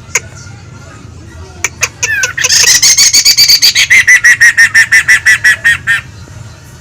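Poksay (laughingthrush) calling vigorously: a few single sharp notes, then a loud, rapid chattering run of repeated notes, about seven a second, for some three and a half seconds, which stops abruptly.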